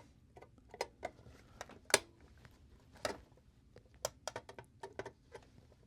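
Irregular small metallic clicks and taps of a screwdriver working the bent tabs of a pressed-steel toy truck body loose, the sharpest about two seconds in.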